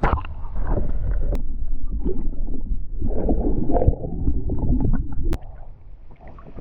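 Water splashing and gurgling at the side of a kayak as a caught Murray cod is lowered back into the water and released, with handling knocks and a sharp click about five seconds in.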